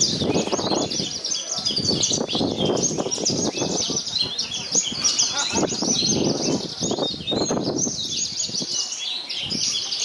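Many caged branjangan (Javan bush larks) singing at once, a dense, unbroken chorus of rapid high chirps and trills. People talking can be heard underneath.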